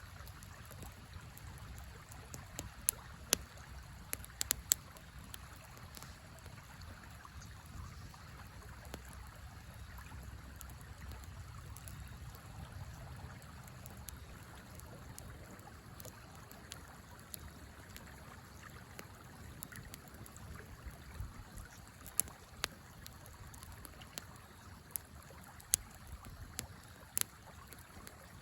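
Campfire crackling, with scattered sharp pops that come in clusters about three to five seconds in and again near the end, over the steady rush of a river.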